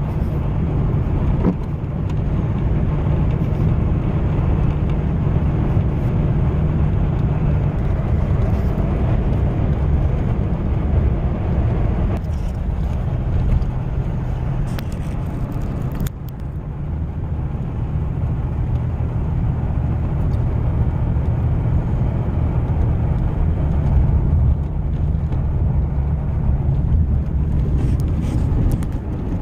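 Steady engine and tyre noise of a truck driving on a dry road, heard from inside the cab, with a few light knocks.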